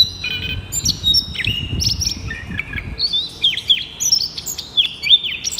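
Small birds chirping and calling: many quick, high, downward-sliding whistled notes, several overlapping, over a low background rumble.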